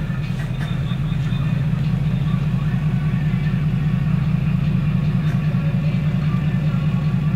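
Diesel pickup truck engine running steadily under way, a low even rumble with a fast regular pulse.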